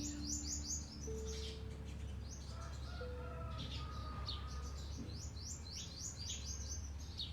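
A small bird chirping in quick runs of short, high notes, one run at the start and another from about five seconds in. Under it are a few sparse, soft music notes and a steady low hum.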